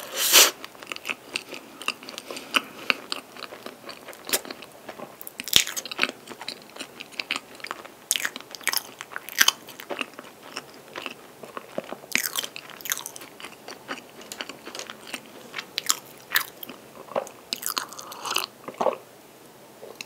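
Close-miked chewing of a soft cream-and-chocolate pastry, with many small wet clicks and crackles from the mouth. Near the end comes a sip of milk from a glass.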